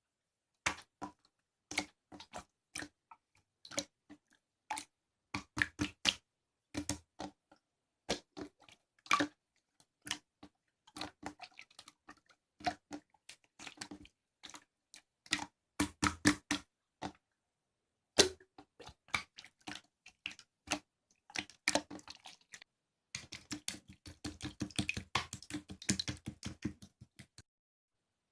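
Irregular sharp clicks and crunches, sometimes in short clusters, turning into a rapid run of clicks near the end.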